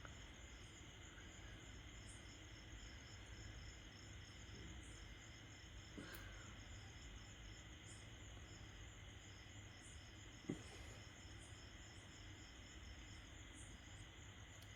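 Near silence: faint room tone with a steady high-pitched hum and a faint, evenly pulsing high chirping, broken by two light clicks about six and ten seconds in.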